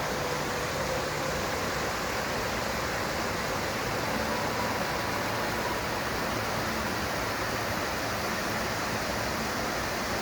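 Steady rush of running water: an even hiss with no breaks.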